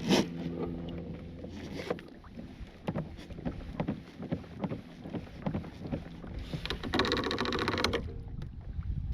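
Scattered knocks and clicks of gear against a kayak hull as a crab trotline is run and crabs are netted, with a rush of noise lasting about a second around seven seconds in.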